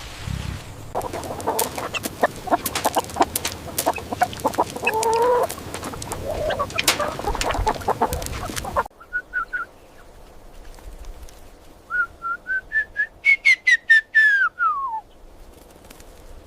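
Chickens clucking over a busy clatter of clicks. After a cut about nine seconds in, a chicken gives a few short calls, then a run of quick notes that climbs into a longer call sliding downward.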